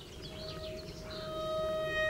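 A steady high tone from an approaching train grows louder, with overtones coming in about halfway through. Birds chirp in the first second.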